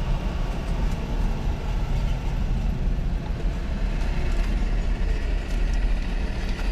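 Steady low rumble of a vehicle engine idling, heard from inside the truck's cab.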